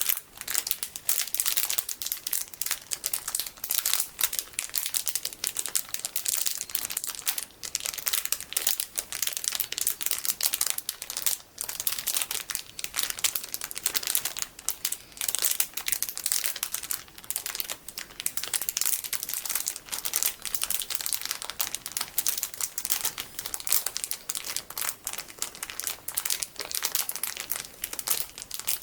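Plastic packaging full of golden sticky beads crinkled by hand: dense, continuous crackling with brief pauses.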